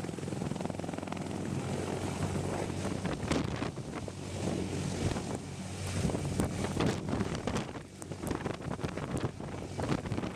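Helicopter running, a steady low rotor and engine drone, with wind buffeting the microphone in gusty surges.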